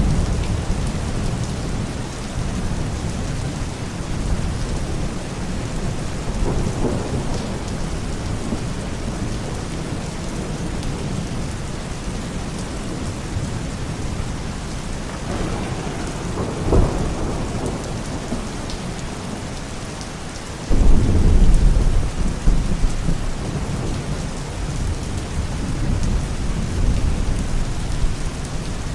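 Thunderstorm: steady rain with thunder rumbling. A few smaller rolls come along the way, and about two-thirds of the way through a loud clap of thunder breaks suddenly and rolls on for several seconds.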